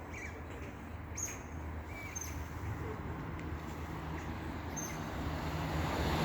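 Class 170 Turbostar diesel multiple unit approaching at speed, its low engine drone growing steadily louder. A few short bird chirps sound over it.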